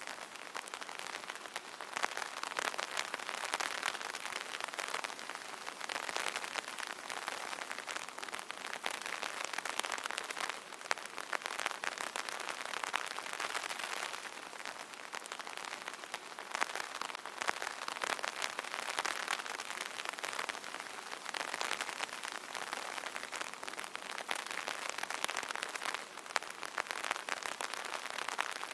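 Light rain pattering on an open umbrella: a dense, steady spatter of drops striking the fabric canopy.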